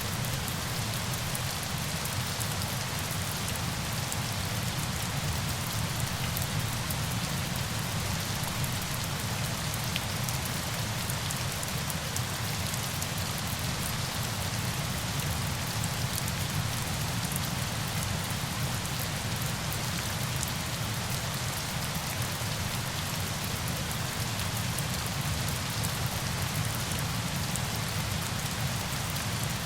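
Steady, unbroken hiss of falling water, with fine droplet patter on top and a low rumble underneath.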